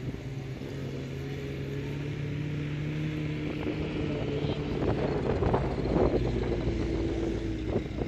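Classic Mini's four-cylinder A-series engine running at fairly steady revs as the car drives across grass and climbs a slope.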